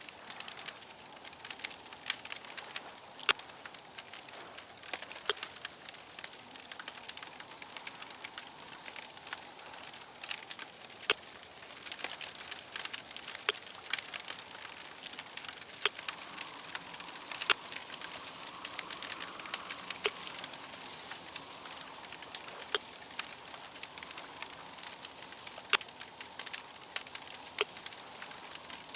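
Fire crackling, with irregular sharp pops over a steady hiss.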